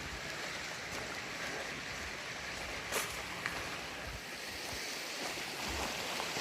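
Steady rush of a mountain river's running water, with one sharp click about three seconds in.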